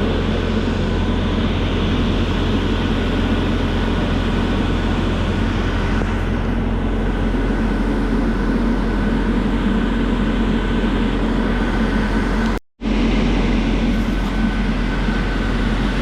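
Ashok Leyland bus's engine and air-conditioning blower fans running with a loud, steady drone and low hum. The sound cuts out for a split second near the end.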